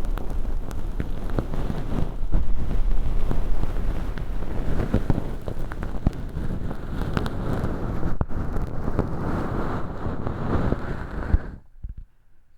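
Tweezers peeling and picking crispy crash-hologram film, used as fake earwax, inside a silicone ear model, close to the microphone: dense crackling with many small sharp clicks over a muffled rumble. It cuts off suddenly near the end.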